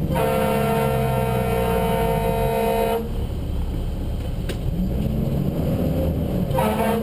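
Fire engine's air horn sounding one long blast of about three seconds, then a shorter blast near the end, over the truck's engine and road noise.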